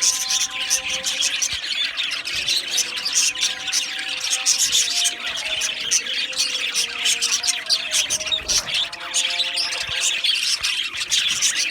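A colony of budgerigars chirping and squawking without pause, many birds calling over one another in a dense chatter.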